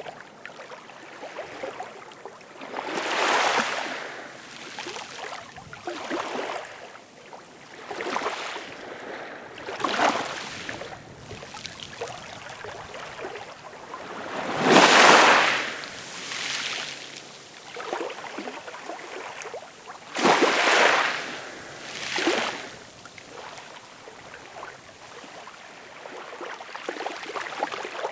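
Ocean waves washing in, a surge of noise every few seconds, the loudest about halfway through and another strong one a few seconds later.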